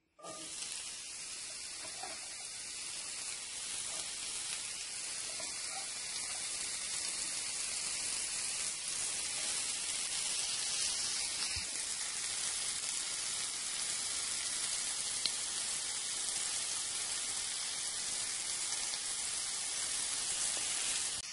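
Chopped oyster mushrooms frying in hot fat in a cast-iron skillet: a steady sizzle that grows slightly louder.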